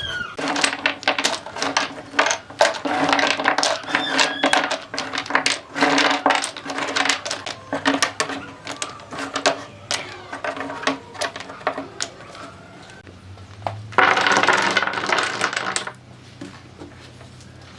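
Rapid, irregular clicking and tapping, tagged as metallic, over a steady low hum, then a loud burst of noise lasting about two seconds, about fourteen seconds in.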